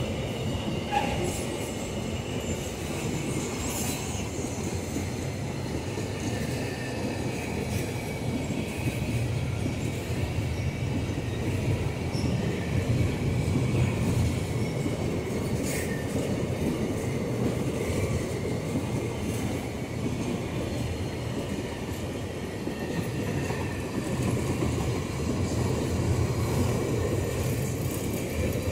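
Empty iron-ore gondola cars of a long freight train rolling past: a steady rumble of steel wheels on rail, with a few sharp clanks and a faint, wavering wheel squeal.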